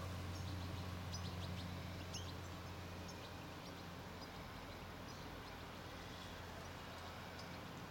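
Faint outdoor ambience: small birds chirp briefly and high, mostly in the first few seconds, over a steady low hum.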